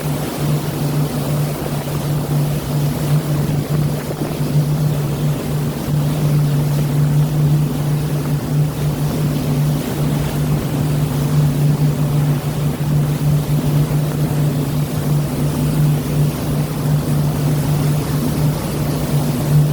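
A steady engine hum, holding one low pitch, over the continuous rush of sea water, as heard aboard a motor boat.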